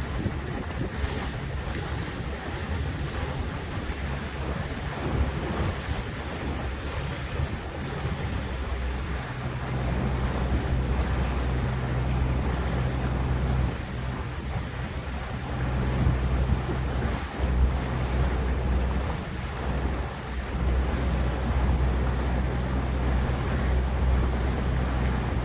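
Motorboat engine running with a steady low hum, with wind buffeting the microphone and water rushing past the hull. The engine hum grows louder about ten seconds in.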